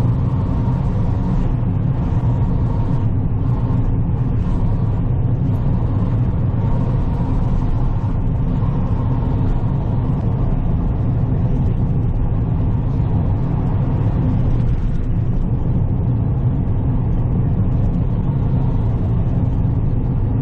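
Car on the move: steady engine and road noise with a low, even hum.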